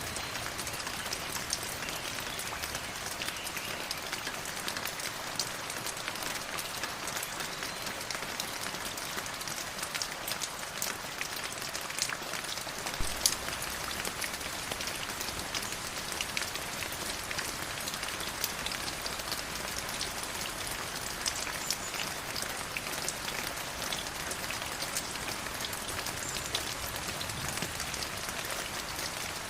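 River water flowing: a steady rushing hiss full of small splashes and droplet ticks.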